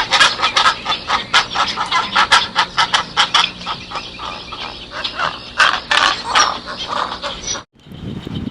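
A flock of fowl calling over one another: many short, loud calls in quick succession that stop abruptly near the end.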